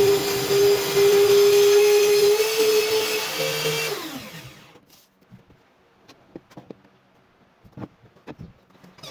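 The motor of a simple homemade table saw running with a steady high whine, then switched off about three and a half seconds in, its pitch falling as the blade spins down. A few faint knocks follow.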